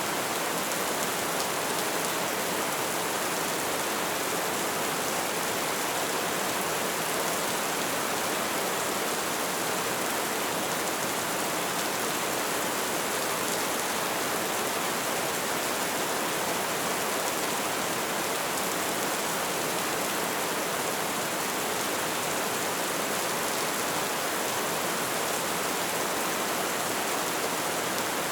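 Light rain falling steadily, an even hiss of drops pattering on a surface.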